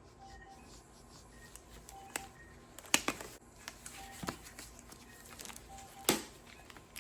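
Soft taps and clicks of handheld ASMR surgical tools, a few sharp ones about three and six seconds in being the loudest. Under them runs a background of short electronic beeps, like an operating-room monitor.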